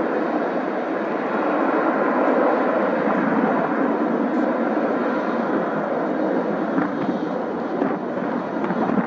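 Jet aircraft engines running with a steady noise.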